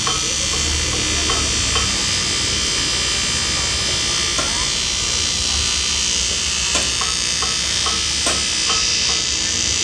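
A steady, high-pitched electric machine noise with a hiss, holding one pitch throughout, and a few faint clicks.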